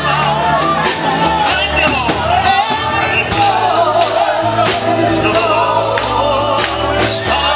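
Live gospel music: singing over a band, with held bass notes and a steady drum beat.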